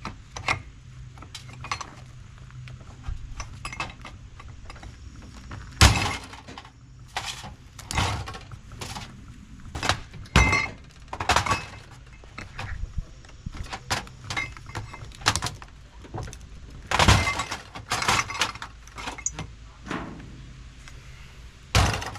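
Irregular metal clanks, knocks and rattles from hand tools working a stubborn part loose from a scrap appliance, with several sharp, louder strikes scattered through.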